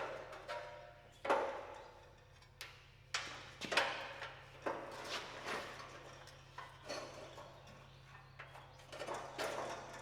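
Irregular metal clanks and knocks, about ten in all, each ringing briefly, as a steel car bumper and its mounting brackets are handled and fitted against the frame. A steady low hum runs underneath.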